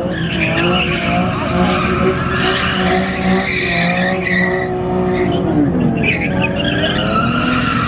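Car tyres screeching as they spin against the pavement in a burnout, over a high-revving engine; the screech is loud and continuous, its pitch wavering and dipping briefly about five and a half seconds in.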